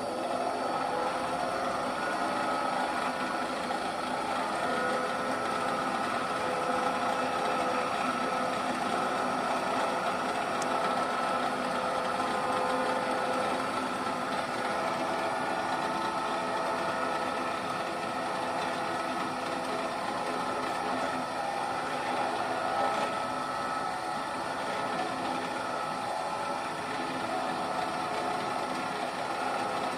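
1968 NS12 bench drill press running on its belt drive at 1:1, its electric motor fed by a frequency inverter and turned up from minimum speed: a steady mechanical whir with several steady tones.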